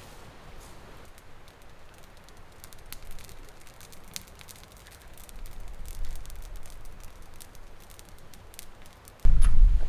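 Small wood fire crackling faintly with scattered sharp ticks. About nine seconds in, loud wind suddenly buffets the microphone.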